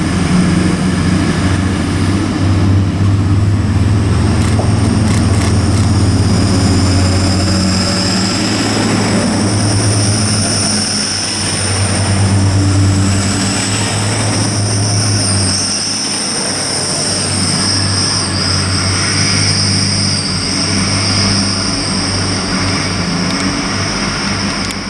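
Class 180 Adelante diesel multiple unit pulling away under power: a loud, low engine drone with a high whine that slowly rises in pitch. It sounds like it's struggling, as if trying to accelerate and not managing it.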